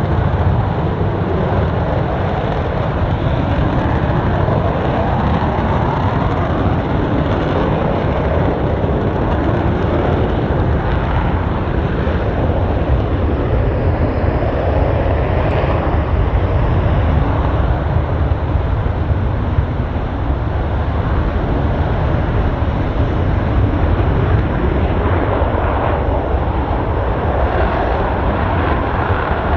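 Military fighter jet engines running loud and steady, a continuous rushing roar with slowly sweeping shifts in tone.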